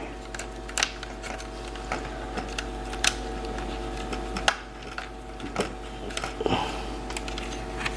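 Scattered small clicks and taps from laptop parts being handled and pried apart during disassembly, over a steady low electrical hum.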